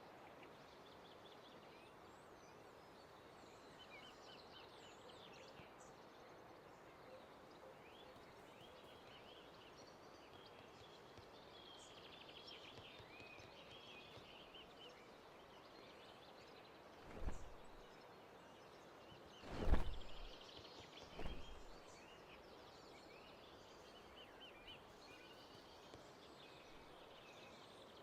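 Faint birdsong, many short chirps over a steady outdoor hiss. Three brief thumps come past the middle, the loudest near two-thirds of the way in.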